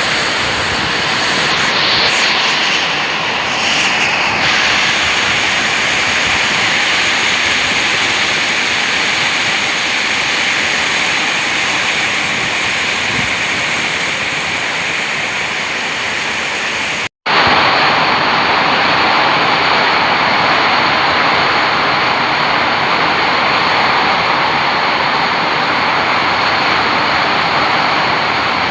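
Heavy rain falling in strong wind: a loud, steady rushing noise that breaks off for an instant about seventeen seconds in, then carries on.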